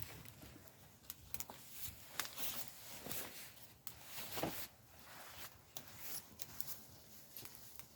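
Wood fire crackling: small irregular pops and snaps over a faint hiss, a few louder snaps near the middle.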